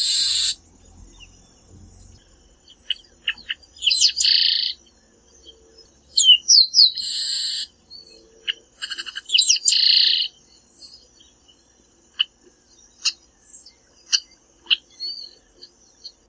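Chestnut-capped blackbird (Chrysomus ruficapillus) singing. Repeated phrases come about every three seconds, each a few quick slurred whistles ending in a harsh buzzy note, and short single chips follow in the second half.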